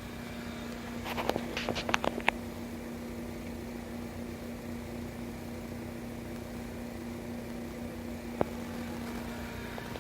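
Atomic absorption spectrophotometer running with a steady hum from its fans and power supply. A quick run of sharp clicks comes about a second in, and a single click comes near the end.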